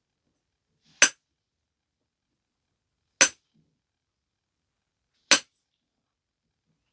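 Flakes being struck off a stone biface during flintknapping: three sharp clicks of stone on stone, about two seconds apart.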